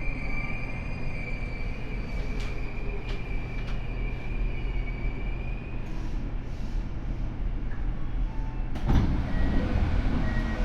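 Tokyo Metro 7000 series subway car with Hitachi IGBT drive running, heard from inside the car: a steady rumble of wheels and running gear with a high whine over it that fades out about six seconds in. About nine seconds in the rumble suddenly grows louder.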